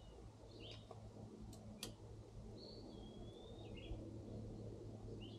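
Wild birds chirping: a few short whistled calls, and a longer whistle about two and a half seconds in that drops slightly in pitch. Two sharp clicks come about a second and a half in, over a low steady hum.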